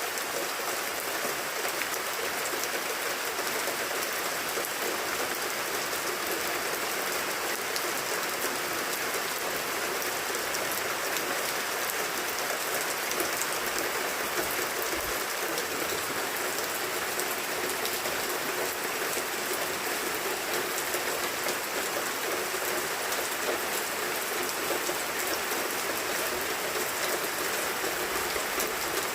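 Steady rain falling: an even hiss of water, with many small drop ticks scattered through it.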